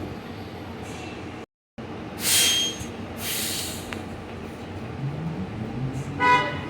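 Inside a New Flyer XT40 electric trolleybus with Vossloh Kiepe drive: steady cabin rumble, two loud bursts of air hiss, then the traction motor's whine rising as the bus gathers speed. A short electronic beep comes near the end, and the sound cuts out briefly about a second and a half in.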